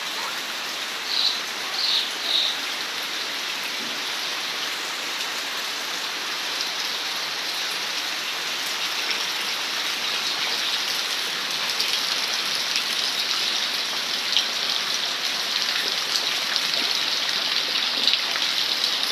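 Steady heavy rain falling, an even hiss that grows a little louder about halfway through. Three short high-pitched squeaks come in quick succession about a second in.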